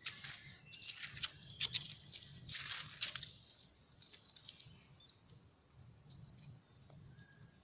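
Steady high-pitched insect buzz, like cicadas or crickets, with a run of short sharp crackles and rustles in the first three seconds.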